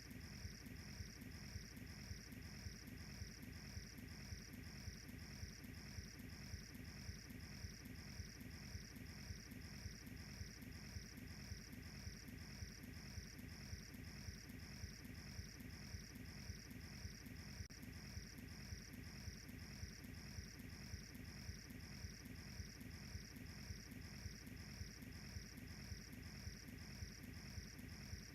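Cricket chirping in a steady, even rhythm, about two high-pitched chirps a second, over a faint low steady rumble.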